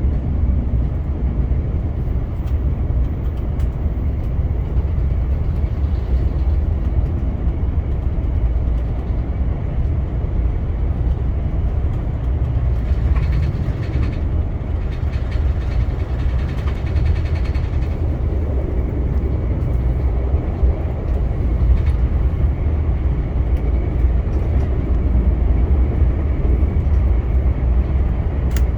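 Via Rail passenger train running along the track: a steady low rumble of wheels on rails, with a few light clicks and a brief brighter hiss about halfway through.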